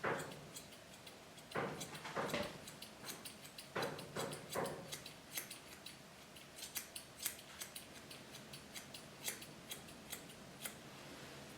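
Grooming shears snipping dog hair in short, irregular snips, with a few louder cuts in the first few seconds and lighter, quicker snips after.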